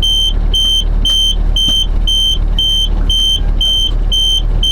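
Electronic warning beeper sounding a steady high-pitched beep about twice a second over the low rumble of a fire engine's running engine.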